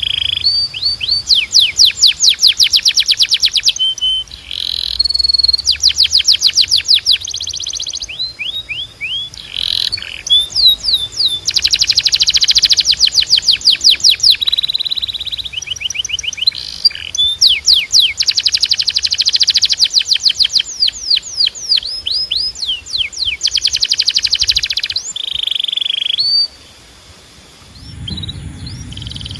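Domestic canary singing a long, loud song of fast trills and rapidly repeated high notes, broken by a few held whistled notes, with a brief pause near the end.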